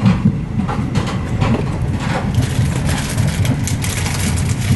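Steady low rumble of a passenger train running, heard from inside the carriage. About two and a half seconds in, a hiss from the wheels and track rises over it.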